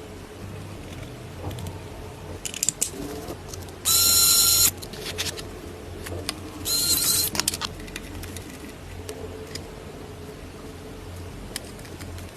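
Small parts clicking and rattling as they are handled, with two short whirring bursts of a small electric motor, about four and seven seconds in.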